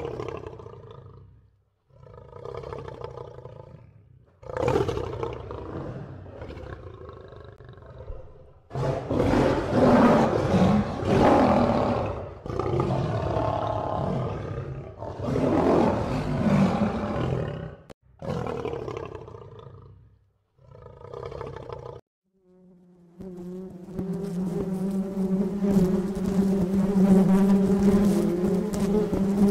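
Male lion roaring and growling in a series of about eight calls, each one to a few seconds long with short pauses between them. About 23 s in it gives way to a bee buzzing steadily.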